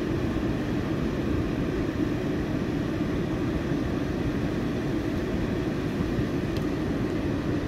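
Rain falling steadily on a car's roof and windows, heard from inside the car.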